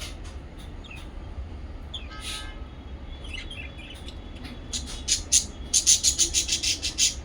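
Small pet parrots chirping: scattered short calls, then from about five seconds in a fast run of loud, sharp chirps, several a second, over a low steady hum.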